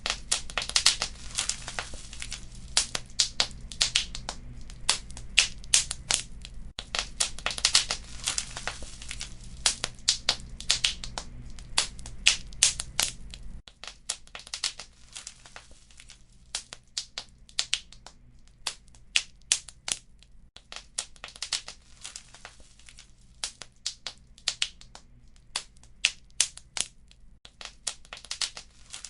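Wood fire crackling, with frequent sharp snaps and pops from the burning logs and embers. A low rumble sits under the crackle and cuts off suddenly about halfway through.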